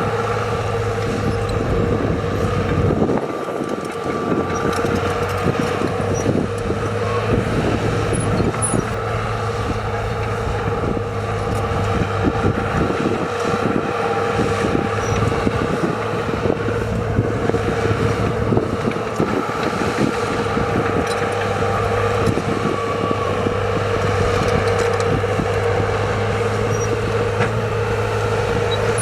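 Heavy diesel earthmoving machinery, dump trucks and bulldozers, running steadily under load, with a constant engine drone and continual metallic rattling and clanking.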